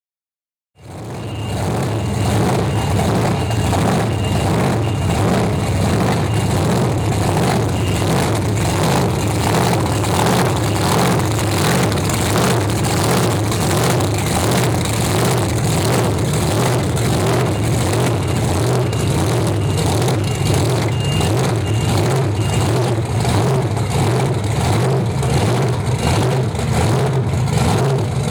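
Monster truck engine running at a steady speed, with an even pulsing throughout. It starts about a second in after a short dropout. A faint, intermittent high beeping comes and goes.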